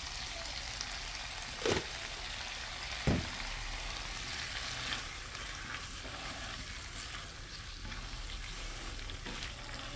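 Squid sizzling as it stir-fries in a nonstick wok, a spatula stirring it about. Two brief knocks come about two and three seconds in.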